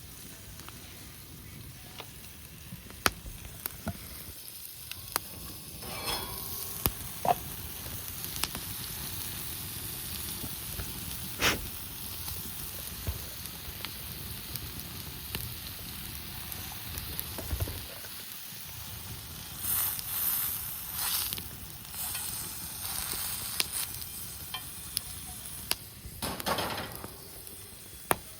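Wood fire in a campfire stand crackling: many sharp pops over a steady hiss, with a few short, louder rushes of hiss in the second half.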